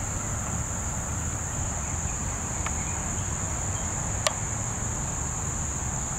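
Steady high-pitched insect chorus with a low rumble underneath and a couple of faint clicks.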